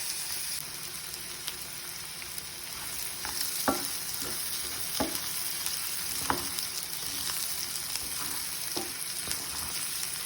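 Shallots and curry leaves sizzling in hot oil while being stirred, with a steady hiss and several sharp knocks of the spoon against the pan.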